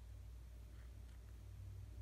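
Near silence: a steady low hum of room tone, with one faint soft rustle a little under a second in.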